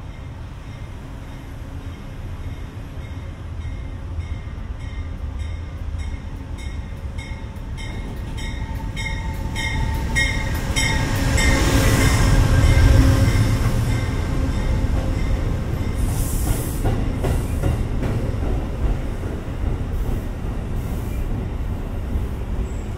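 CT Rail train, a diesel locomotive hauling stainless-steel coaches, pulling in along the platform. A low rumble builds as it nears, with regular sharp ringing strikes about twice a second on the approach. It is loudest as the locomotive passes about halfway through, then the coaches roll by.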